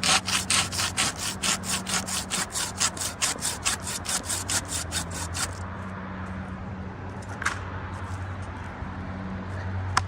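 Hand saw cutting through spruce wood in fast, even strokes, about four to five a second, which stop about five and a half seconds in.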